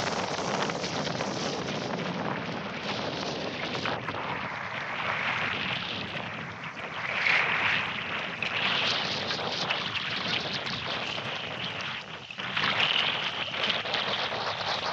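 Strong wind and choppy water rushing and splashing around a sailing canoe, with gusts buffeting the microphone. The rush swells twice, about halfway through and again near the end.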